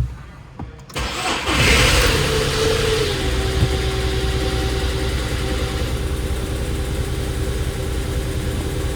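VW Polo 9N engine cranking briefly and catching about a second in, revving up and then settling to a steady idle, on a battery just revived by recharging. A click comes just before the cranking.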